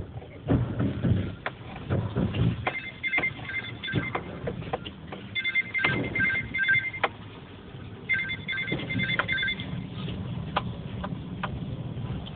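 Electronic ring tone: three bursts of rapid high beeps, each lasting about a second and a half and coming about two and a half seconds apart. Under it run a low hum and scattered knocks and rattles.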